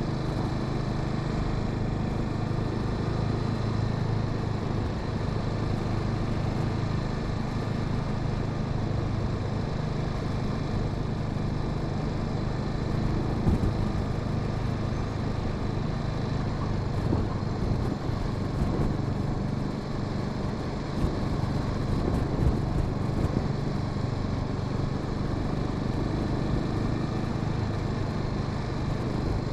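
Honda Sahara 300's single-cylinder engine running at a steady, even speed, heard from the rider's position. Scattered knocks and rattles come in over the second half.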